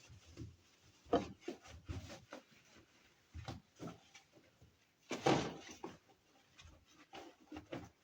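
Scattered knocks and clatter from scrubbing and handling a washing machine's parts, with one louder knock about five seconds in.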